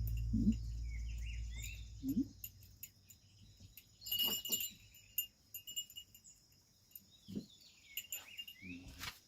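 Small birds chirping in the background, with scattered light clicks and a few brief low sounds that could be voices or animals. A low steady hum fades away over the first two seconds or so.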